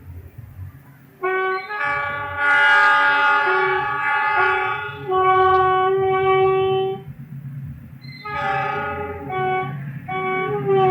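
Train horn: one long blast of several notes at once, then a string of short toots at the same pitch near the end, over the low rumble of a passing train.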